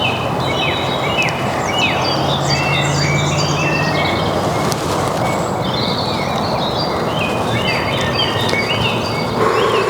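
Many birds calling at once: a dense chorus of short chirps and whistles over a steady hiss. Near the end a new, steadier sound with held tones joins in.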